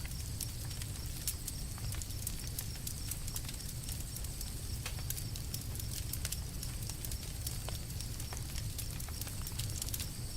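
Campfire burning, with frequent sharp crackles and pops from the wood over a low steady rumble.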